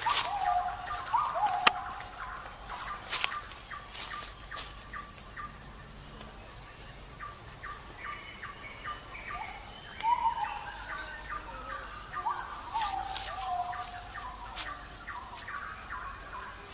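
Birds calling in the open: repeated short calls that fall in pitch, coming in clusters, with a run of quick short chirps in the middle and a few sharp clicks.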